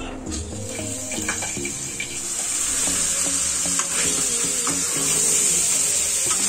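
Crabs frying in oil and masala in a kadai: a steady sizzle that grows louder about two seconds in, with the occasional scrape of a spatula, under background music.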